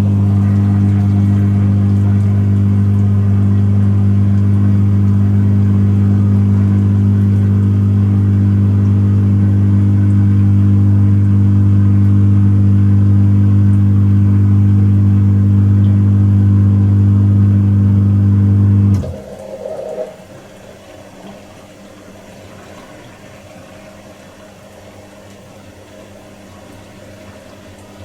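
Slimline dishwasher's pump motor running with a loud, steady hum, stopping abruptly about 19 seconds in and leaving a much quieter low sound.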